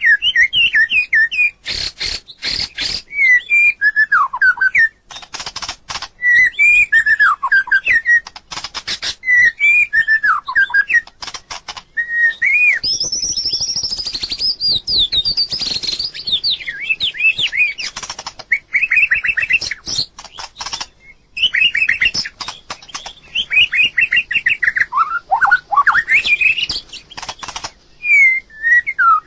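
White-rumped shama singing: a run of varied whistled phrases that sweep up and down in pitch, with many sharp clicks between the phrases.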